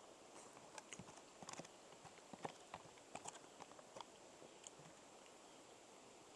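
Faint, irregular clicks and taps, most between one and four seconds in: someone eating out of a freeze-dried meal pouch, the utensil and pouch knocking and rustling.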